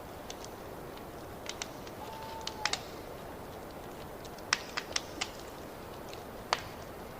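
Wood fire crackling in a fireplace: a steady low hiss with irregular sharp pops and snaps, the loudest a little past halfway. About two seconds in, a brief faint steady whistle-like tone sounds for about half a second.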